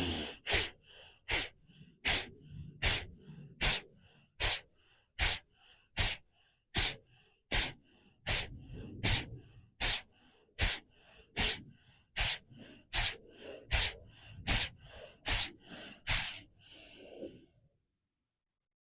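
Bhastrika (bellows breath): rapid, forceful breaths in and out through the nose, a sharp loud breath about every three-quarters of a second with fainter ones between. They stop about 16 seconds in.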